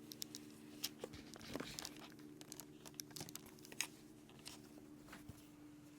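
Gift wrapping crinkling faintly as it is handled, in scattered short crackles, over a steady low hum.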